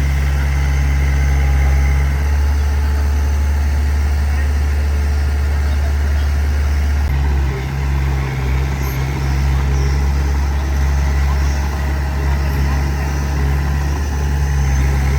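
Diesel engine of earthmoving machinery running steadily, with a brief dip in its note about seven seconds in.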